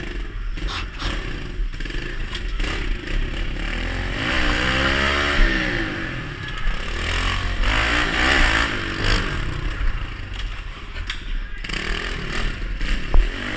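Pit bike engines revving, rising and falling in pitch twice, once about four seconds in and again about eight seconds in, with clatter and scraping from the bikes on the track.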